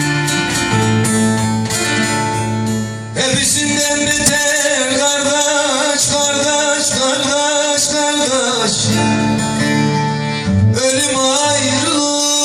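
Bağlama and acoustic guitar playing Turkish folk music. From about three seconds in to about nine seconds, a male voice sings a wavering, melismatic phrase in uzun hava style over them.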